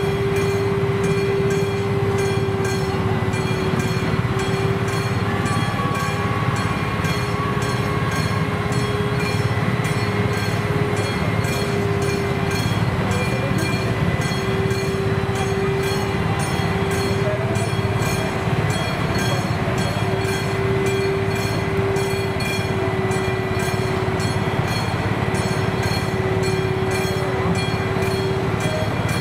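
ČD Cargo class 744 EffiShunter diesel locomotive rumbling slowly over a level crossing, hauling a TGV trainset. A steady tone and an even rhythmic ticking from the crossing's warning equipment run over the rumble.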